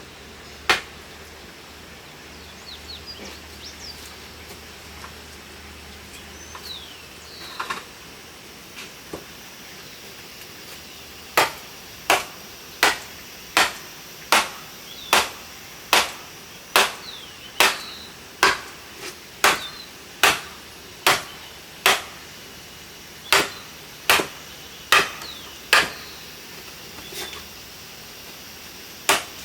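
A hand tool striking wood in a steady chopping or hammering rhythm, about eighteen sharp blows a little faster than one a second, after a single knock near the start. Faint bird chirps can be heard in the first few seconds.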